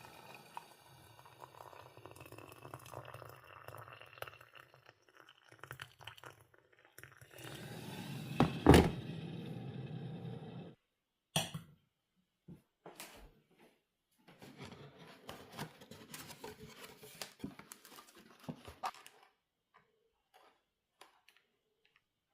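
Kitchen cooking sounds: dishes and utensils knocking and clinking, over a steady low hum at first. One sharp knock about nine seconds in is the loudest sound, followed by scattered clicks and a few seconds of clatter.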